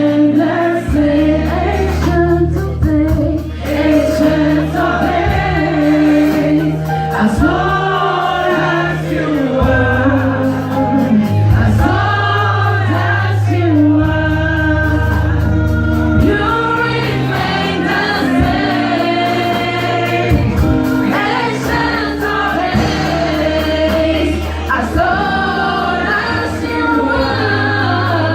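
A gospel choir singing a song in Twi over held low bass notes that change every few seconds.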